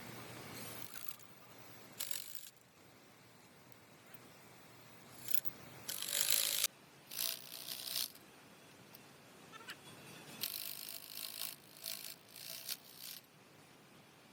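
Short, irregular bursts of mechanical clicking and rattling from hand-tool work in a workshop, the loudest about six seconds in and a cluster of them near the end.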